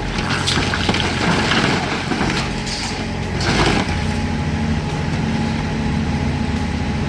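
Heavy truck engine running, with noisy cracking and scraping over the first few seconds, then settling into a steady engine sound from about halfway in.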